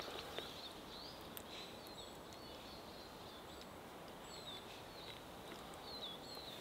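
Woodland birds calling: a dozen or so short, high chirps scattered through the moment, over a faint steady hiss of outdoor background.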